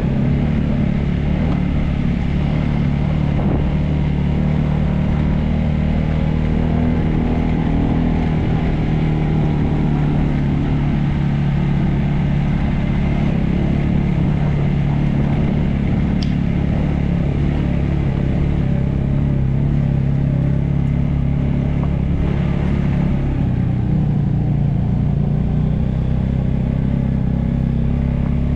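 A motor vehicle's engine running at a steady speed on the move, a constant low hum.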